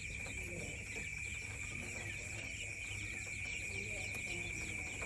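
Newly hatched quail chicks, about two days old, peeping softly in many short chirps over a steady high-pitched hum.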